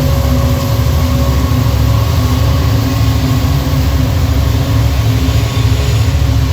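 Diesel freight locomotives running under power, a loud, steady, deep engine drone with a few steady tones above it.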